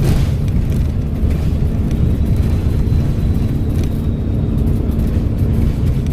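Volvo B7RLE bus's six-cylinder turbo-diesel engine running under way with a steady low rumble, and a faint high turbo whistle for about two seconds in the middle.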